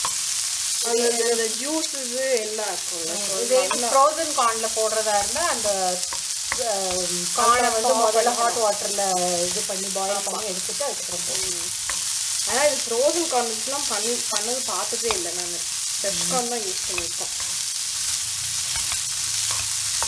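Corn kernels, diced capsicum and onion sizzling in oil in a nonstick frying pan, stirred with a wooden spatula. A wavering pitched sound runs over the frying for most of the time and stops near the end.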